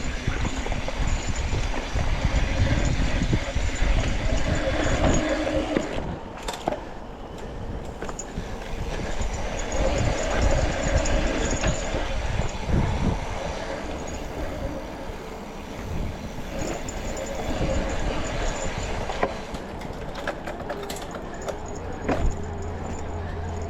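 Electric mountain bike riding a dirt mountain trail: tyres rolling over the ground and the bike clattering over bumps, with a steady rumble that is strongest in the first half.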